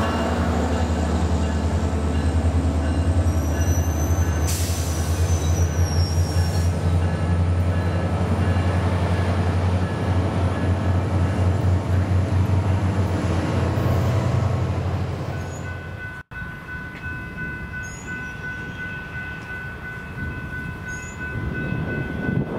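SunRail commuter train, a diesel locomotive hauling bilevel coaches, rolling past and away: a loud low engine drone and rumble of the cars on the rails, with a brief high wheel squeal about four to six seconds in. The sound fades out after about fifteen seconds. After an abrupt break, quieter background follows with a steady high tone.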